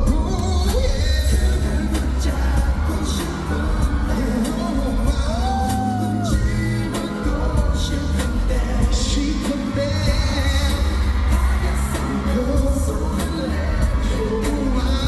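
Live concert performance of a Korean pop ballad: a male voice sings the melody over a band or backing track with a heavy, steady bass, heard through a fan's recording in the hall.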